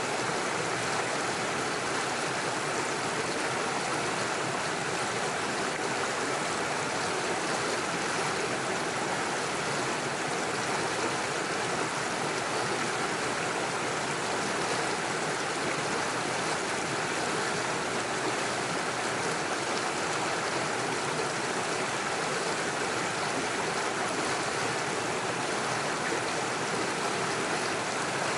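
Small rocky stream rushing and splashing steadily over stones and small waterfalls.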